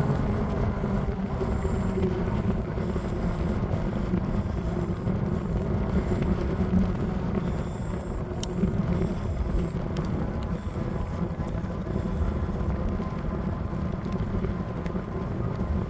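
Steady rushing wind on the microphone with rolling road noise from a moving bike, plus a couple of faint ticks about halfway through.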